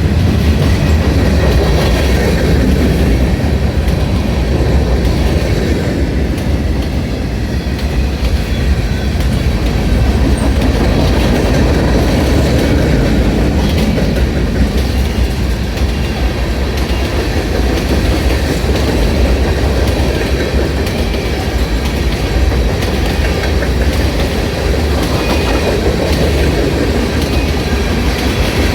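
Norfolk Southern freight train cars rolling past at steady speed: a continuous low rumble of steel wheels on rail with a clickety-clack over the rail joints.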